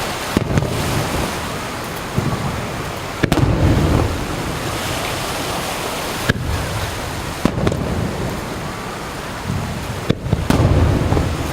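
Aerial fireworks shells bursting: sharp bangs every few seconds, most followed by a low rolling boom lasting about a second, over a steady wash of surf and wind.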